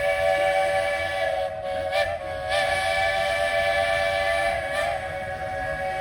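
Steam locomotive's chime whistle held in one long, steady blast of several notes sounding together, cutting off abruptly about six seconds in.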